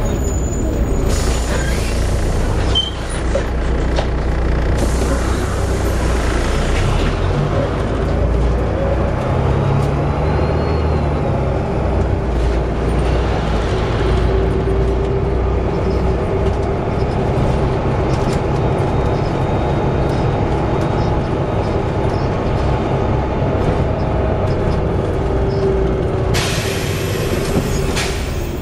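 Volvo B7TL bus with an Allison automatic gearbox, running steadily, with a held whine in the drivetrain noise. Three bursts of air hiss come about a second in, around five seconds in, and near the end.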